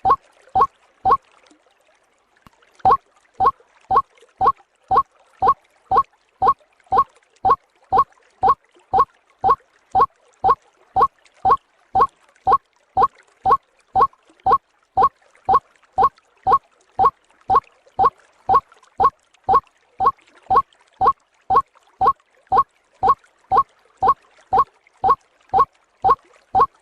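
White-breasted waterhen (ruak-ruak) call played as a bird-lure recording: short notes repeated steadily about one and a half times a second, with a brief pause about a second in.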